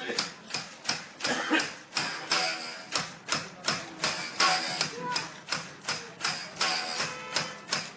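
Cotton-fluffing bow being worked: its bowstring struck over and over, about two to three strikes a second, some strikes leaving a short twanging ring as the string beats loose the cotton.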